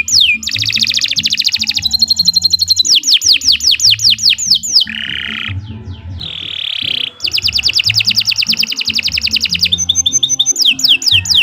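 Domestic canary singing a long, loud song made of rapidly repeated phrases: runs of falling whistled sweeps at about six a second, alternating with very fast trills and a couple of harsher, rolling notes around the middle.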